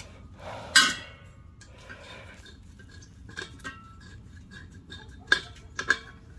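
Metal-on-metal clinks and clanks of tools and gas fittings being handled: one loud clank just before a second in, then a few lighter clinks with a short ring.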